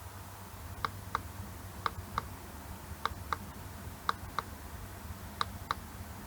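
Push button on an iPhone LCD and touch screen tester pressed five times to step through LCD models, each press a pair of short clicks (press and release) about a third of a second apart, roughly one press a second.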